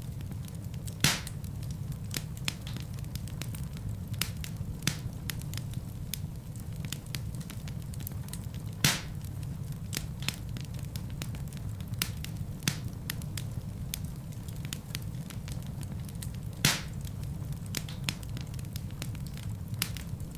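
Wood fire burning in a fireplace: a steady low rumble of flames with frequent small crackles and three louder pops of the logs, at about one, nine and seventeen seconds in.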